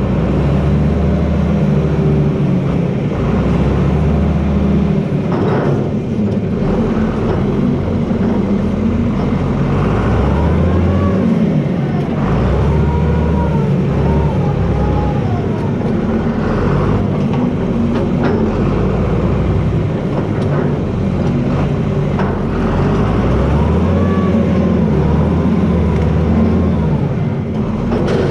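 John Deere 4320 tractor's six-cylinder diesel engine running under shifting load while pushing with a front blade. A wavering, rising and falling whine comes through over it about a third of the way in and again near the end.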